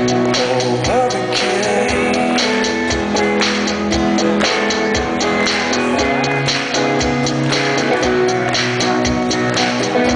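Rock band playing live in an instrumental stretch of the song, with guitar over a steady drum-kit beat.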